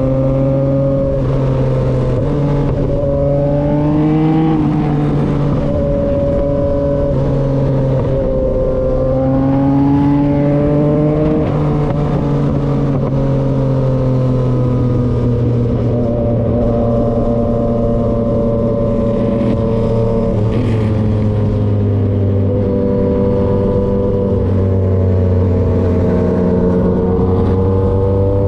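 2023 Yamaha XSR900's three-cylinder engine through an SC-Project CRT exhaust, running under way: the pitch rises with acceleration and drops at gear changes several times in the first half, then holds steadier with smaller rises and falls.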